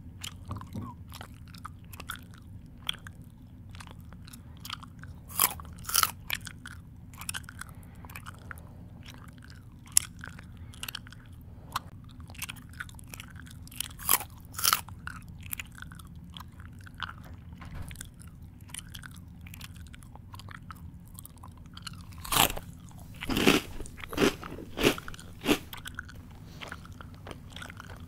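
A person chewing crunchy food close to the microphone: irregular crisp crunches and mouth clicks, with a louder run of crunches near the end.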